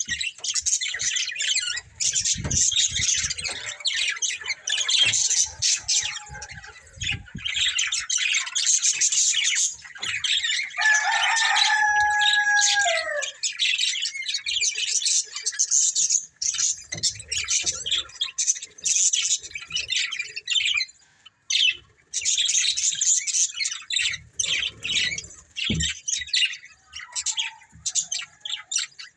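Budgerigars chirping and chattering in a fast, continuous warble. About a third of the way in comes a longer held two-toned call that drops in pitch at its end, and the chatter pauses briefly about three-quarters through.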